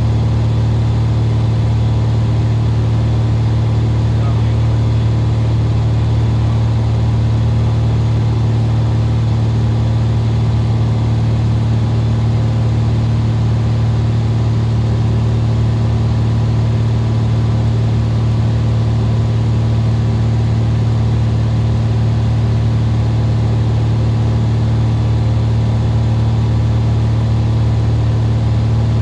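Steady drone of a single-engine Cessna RG's piston engine and propeller, heard in the cabin in flight, holding one even pitch with no change in power.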